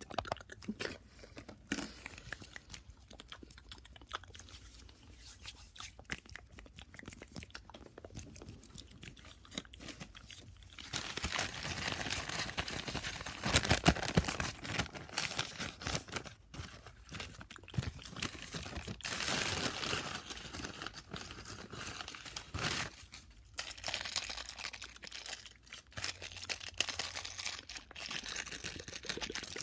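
Fast, aggressive wet mouth sounds: rapid clicks and smacks of tongue and lips. They come sparsely at first, then thicken into a dense crackle from about eleven seconds in until about twenty-three seconds.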